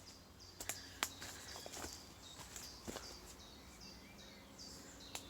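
Quiet outdoor ambience with a faint high chirp repeating about twice a second, and a few soft footsteps on the path.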